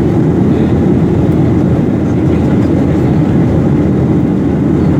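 Airliner cabin noise: the engines and the air rushing past the fuselage make a steady, loud, low din inside the passenger cabin.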